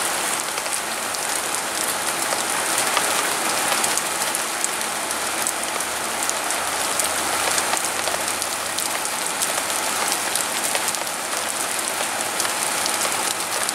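Steady rain falling, an even hiss broken by many small ticks of individual drops.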